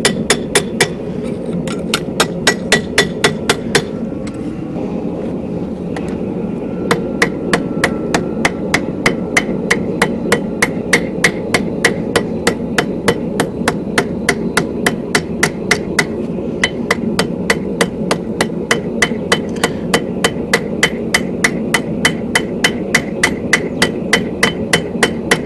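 Hand hammer striking hot steel bar on an anvil in a fast, even rhythm of about three to four blows a second, with a brief lull about four to six seconds in. The smith is knocking the corners of the twisting bar back down to square and round it.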